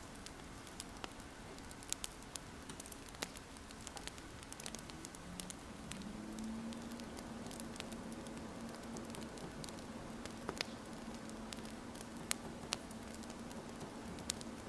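Wood fire crackling, with sharp irregular pops over a soft steady hiss, mixed with the scratch of a pen writing on paper. A low steady hum comes in about six seconds in.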